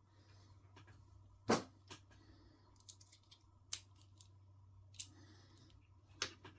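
Small hand tools and metal parts being handled during RC car assembly: a few sharp, separate clicks and taps, the loudest about a second and a half in, over a faint steady hum.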